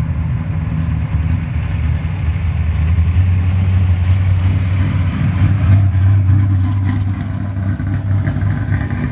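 Chrysler Valiant's engine running with a deep, loud rumble as the car goes by. The car is taken to be turbocharged. The engine grows louder to a peak in the middle, then eases off a little.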